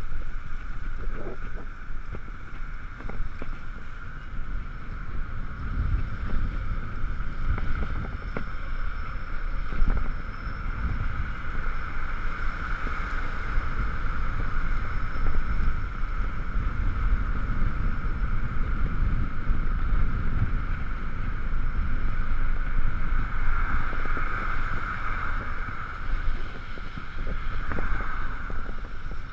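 Riding noise from an Ekoway ML5000 electric vehicle in the rain: wind buffeting on the camera and a steady rumble, with a constant mid-pitched whine that swells twice, a little past a third of the way in and again near the end.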